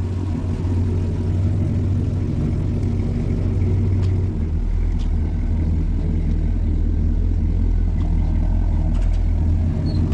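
The engine of a 1961 Ford Thunderbird traditional custom car runs steadily with a deep, continuous low note. About four seconds in, the note drops lower and settles.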